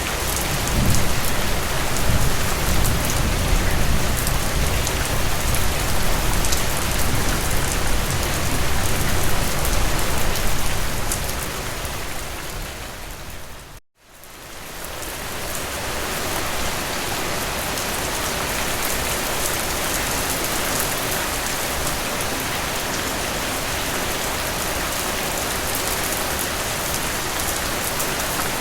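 Heavy rain falling steadily, heavier and deeper in the first half. About halfway through it fades out to a moment of silence and fades straight back in, an edit join in the recording.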